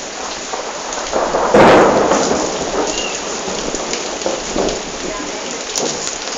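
Thunderstorm: rain falling steadily, with a sudden loud thunderclap about one and a half seconds in that rumbles away over the next couple of seconds.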